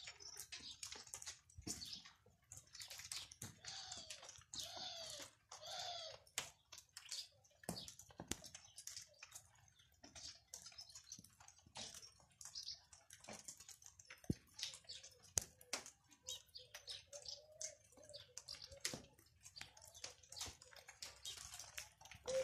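Scattered raindrops falling and dripping, heard as faint, irregular ticks and taps. Birds chirp now and then, and a dove coos in the second half.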